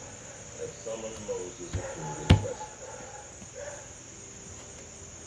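Crickets chirping steadily in the background, a constant high-pitched trill. A single sharp thump about two seconds in, with faint distant voices early on.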